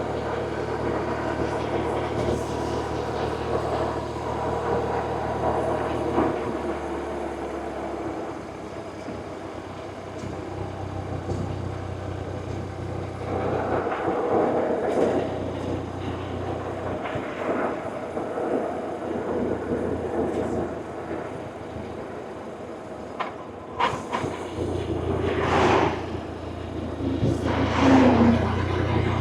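BMW R1100RT's air/oil-cooled boxer twin running while the motorcycle is ridden, its note changing a few times with throttle and gears. Bursts of wind noise come and go over it.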